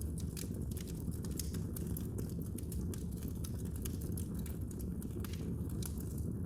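Wood fire burning in a fireplace, with a steady low rumble of flames and many quick, irregular crackles and pops, several a second.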